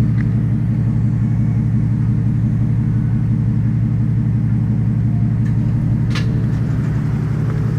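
A pickup truck's engine running steadily, a low even rumble.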